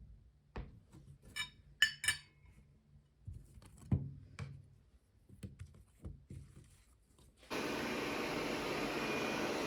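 Dishes and glassware being handled: scattered light knocks and a few short ringing clinks of glass or ceramic. About three-quarters of the way through, a steady rushing noise starts suddenly and carries on.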